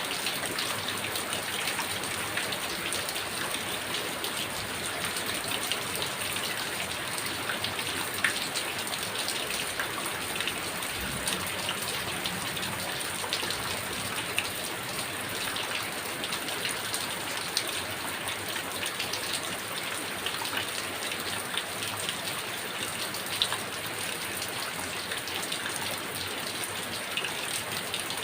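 Heavy rain falling steadily, with many individual drops ticking sharply close by.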